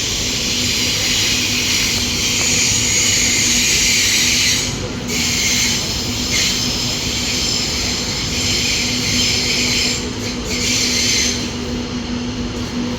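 A train moving through the station: a steady low rumble with a steady hum, and a high hissing squeal from the wheels and brakes that drops out briefly a few times and dies away about eleven seconds in.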